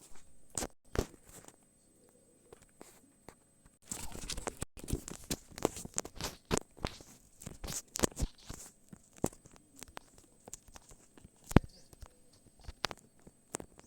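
Irregular clicks, taps and rustles of objects being handled close to the microphone, thickest in the middle, over a faint steady high-pitched tone.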